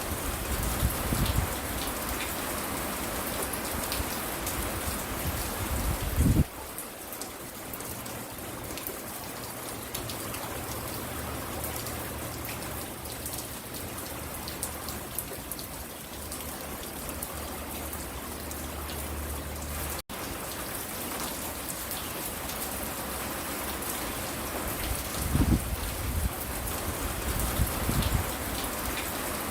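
Steady rain falling, an even patter, with a few brief low rumbles about six seconds in and again near the end.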